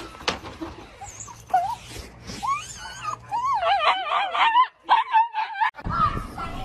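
A dog whining in a run of high, wavering calls that slide up and down in pitch.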